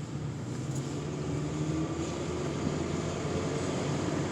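2004 Toyota Camry's engine pulling under acceleration over steady road noise, its pitch rising slowly through the middle; the misfire is gone and it no longer runs sluggish.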